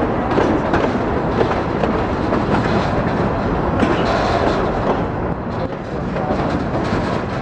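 Freight cars rolling past at track level: a steady rumble of steel wheels on rail with repeated clicks as the tank cars and empty bulkhead flatcars go by.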